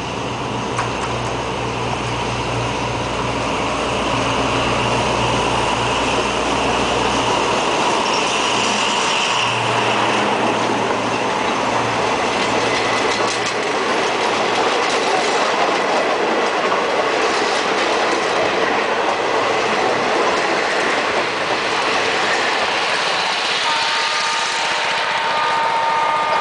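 Alsthom ALS diesel-electric locomotive drawing near and passing, growing louder over the first few seconds, its low engine note dropping away about eight seconds in. A rake of passenger coaches then rolls past with wheels running over the rails.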